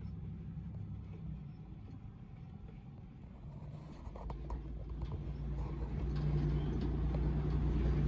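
Vehicle engine running at low speed on a sandy dirt road, heard from inside the cab, growing louder from about halfway through, with a few light knocks and rattles.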